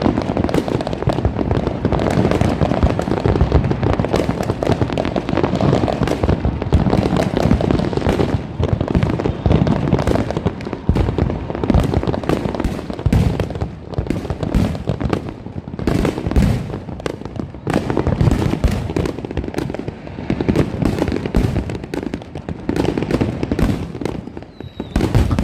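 Continuous barrage of fireworks and firecrackers, dense overlapping bangs and crackles with a rumbling low end and no let-up.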